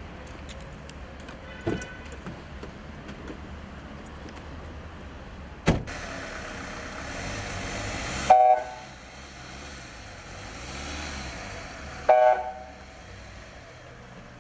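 Street traffic: a steady hum of vehicles with a sharp knock, then a passing rush. A car horn honks briefly twice, about 8 and 12 seconds in.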